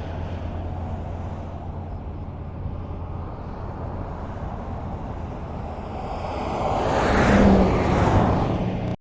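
Highway traffic: a steady low rumble of passing cars, with one vehicle swelling up loud and passing close about three-quarters of the way through. The sound cuts off abruptly at the very end.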